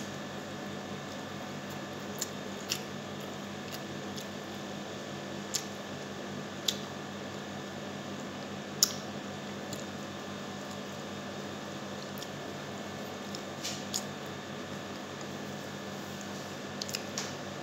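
A person eating by hand and chewing with the mouth close to the microphone: soft wet chewing with about nine sharp clicks and smacks scattered through, over a steady low hum.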